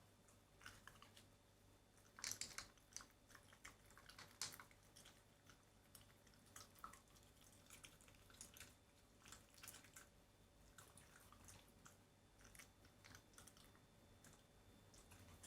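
Shiba Inu chewing and biting chicken breast meat: faint, irregular short smacks and clicks, busiest a couple of seconds in.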